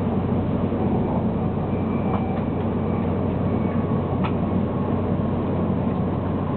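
Cabin noise inside a 700 series Shinkansen train running along the line: a steady rumble of wheels and rushing air with a constant low hum. A faint single click sounds about four seconds in.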